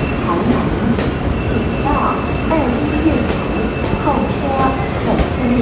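A train running on rails: a steady low rumble with thin, high wheel squeals, which grow stronger near the end.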